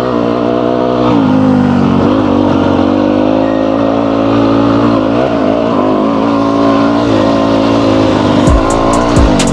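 Yamaha YZ250F four-stroke single-cylinder dirt bike engine running under throttle while being ridden, its pitch dropping and climbing again a few times with throttle and gear changes. A few sharp knocks come near the end.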